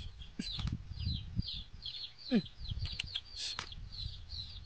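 Birds chirping in quick repeated notes over a low rumble, with a few light clicks and one short falling call about two seconds in.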